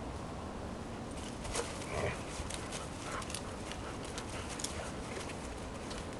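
Airedale terrier making short vocal sounds about two seconds in and again near three seconds, over scattered light clicks and crackles.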